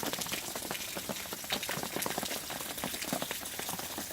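Steady rain on an RV awning: many irregular drops tapping close by over a steady hiss.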